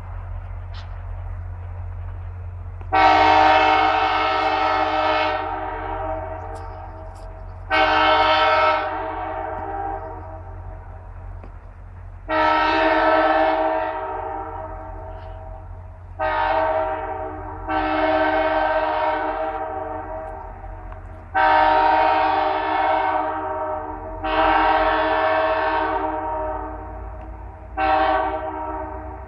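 Horn of VIA Rail F40PH-2 diesel locomotive 6406 sounding a series of eight blasts, a mix of long and short, several seconds apart, over a steady low rumble as the train approaches.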